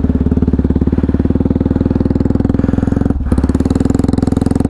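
Motorcycle with a full-system aftermarket exhaust, dB killer removed, idling just after a cold start: a steady, fast exhaust pulse, heavy in the bass, with a brief dip about three seconds in.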